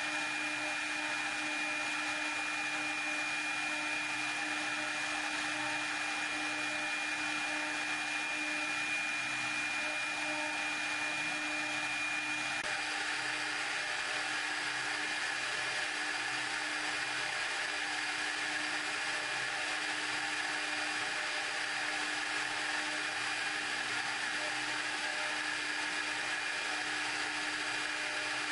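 CNC ring-milling machine running steadily, its spindle motor giving a constant hiss with a high whine. About halfway through the whine shifts to a higher pitch.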